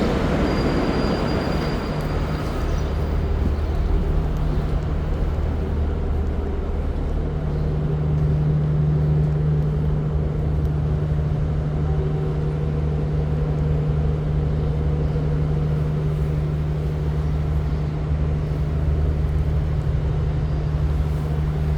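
V/Line regional diesel train idling at the platform: a steady low engine drone whose hum grows stronger about seven seconds in.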